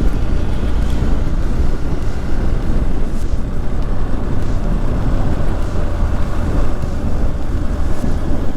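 Motorcycle running steadily while riding, with a constant low rumble of engine and wind buffeting the microphone.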